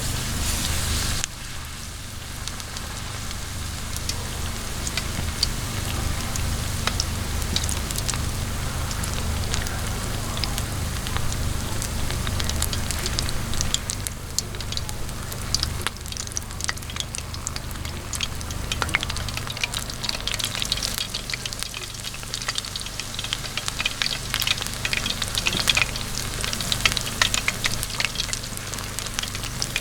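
Food frying in a hot pan, a steady sizzle full of sharp crackles and pops that grow denser and louder toward the end.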